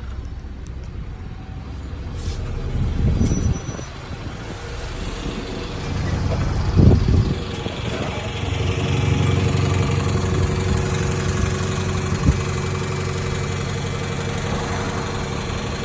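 A large road vehicle's engine, such as a bus's, running close by. It grows louder and steadier about six seconds in, with two low surges around three and seven seconds in and a short knock near the end.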